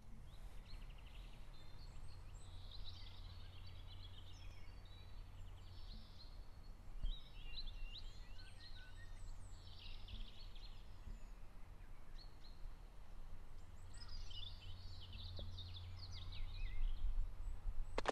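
Wild birds chirping and singing in several short spells, over a steady low hum.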